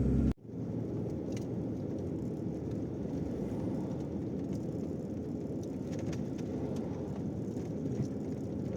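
Steady low rumble of a truck driving, heard from inside the cab. A louder engine hum cuts off abruptly a fraction of a second in.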